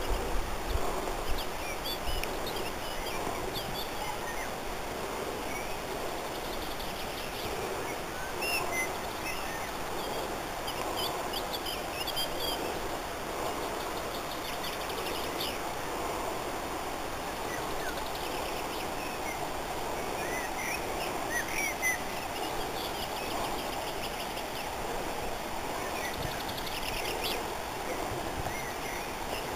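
Wild birds chirping and calling in short, scattered high notes, clustering about a third of the way in and again near the end, over a steady background hiss.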